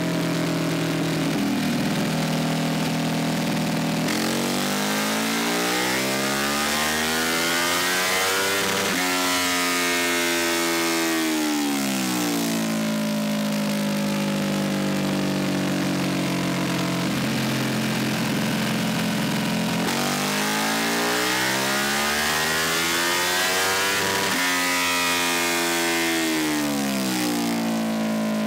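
Ducati 1299 Superleggera's 1285 cc Superquadro L-twin run up on a chassis dyno during break-in, its rear wheel spinning the roller: idling, then twice climbing in pitch for several seconds and dropping back to idle.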